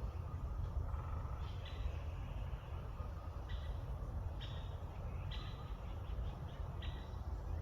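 A bird giving short, repeated calls about once a second, over a steady low rumble.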